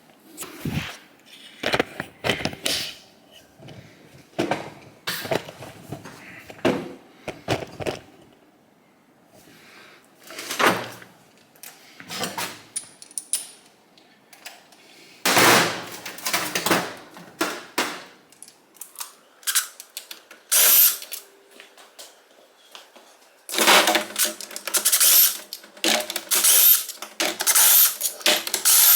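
Metal clinks and knocks of tools and engine parts being handled. About three-quarters of the way in, a power driver starts running in repeated short bursts, each ending in a rising whine, as it backs out the engine's crankcase bolts.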